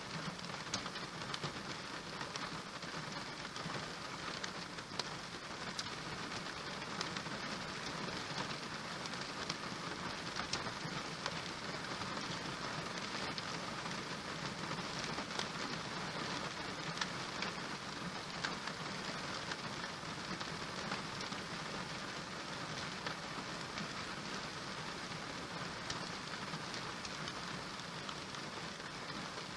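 Steady rain falling, with scattered sharper drop impacts standing out from the even patter.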